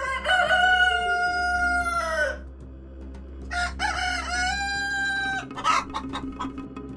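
Rooster crowing twice, each crow a long held call of about two seconds, followed by a few short sharp calls near the end.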